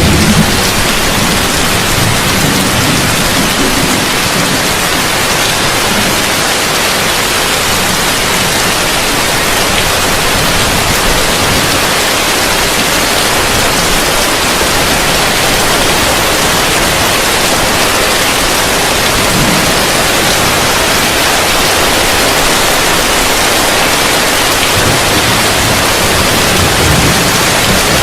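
Heavy rain falling on a roof: a steady, even hiss, with brief low rumbles near the start and near the end.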